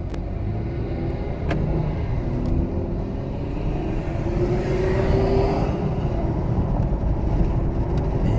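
Inside the cabin of a 2017 Ford Edge Titanium on the move: the 3.5-litre V6 runs under a steady low road rumble, its pitch climbing for a few seconds as the car accelerates.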